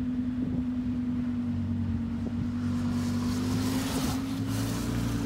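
Audi R8's V10 engine idling with a steady hum. A motorcycle passes about three to four seconds in, adding a rush of noise that swells and fades.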